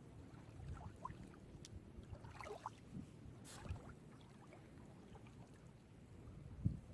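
Gentle sea waves lapping and splashing at the shore, faint, with a low steady wash and small irregular splashes.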